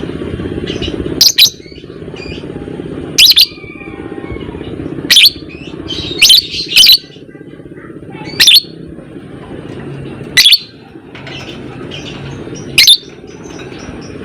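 Lovebird giving short, shrill calls about every two seconds, one quick pair near the middle, over a steady low hum.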